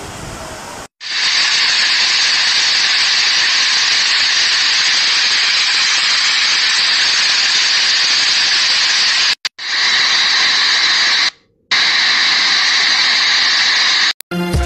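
Heavy hail pelting the ground and buildings: a loud, dense, steady hiss of hailstones striking. It starts about a second in and breaks off briefly twice in the last few seconds.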